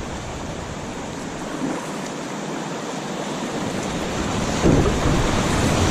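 Rushing river water at a rapid drop-off, a steady hiss that gets louder and gains a low rumble about two-thirds of the way in as the kayak reaches the drop.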